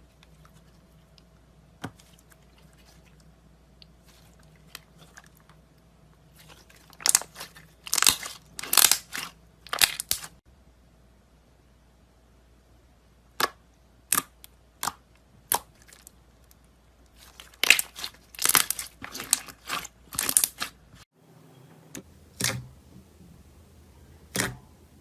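Crisp crunching and crackling, in two dense clusters of sharp cracks with single clicks scattered between them.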